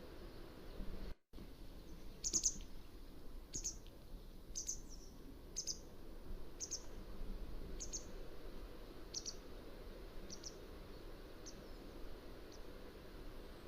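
Mountain wagtail calling: a series of short, high notes, about one a second, growing fainter toward the end, over a steady low background noise. The sound cuts out completely for an instant about a second in.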